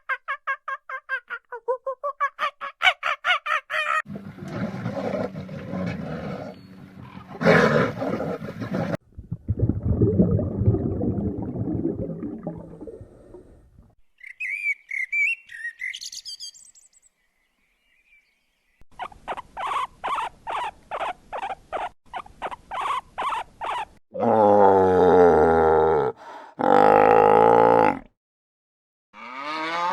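A run of different animal calls cut one after another: rapid pulsing calls, high chirps about halfway through, and long deep calls near the end.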